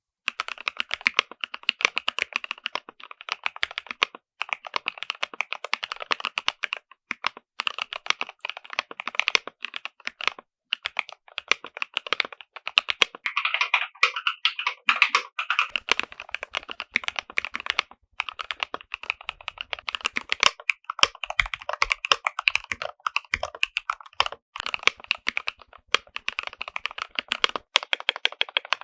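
Continuous typing on a modded Keychron K4 v2 mechanical keyboard with lubed Gateron Milky Yellow switches, plate foam and a sound dampener, a dense patter of keystrokes broken by short pauses.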